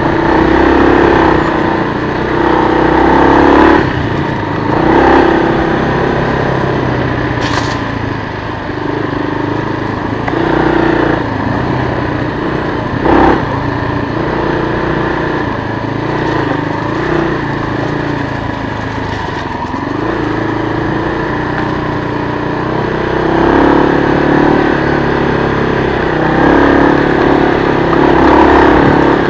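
The single-cylinder four-stroke engine of a 1996 Kawasaki KLR250 trail bike is running under way, its pitch rising and falling as the throttle opens and closes. A few sharp knocks come through, the loudest about thirteen seconds in.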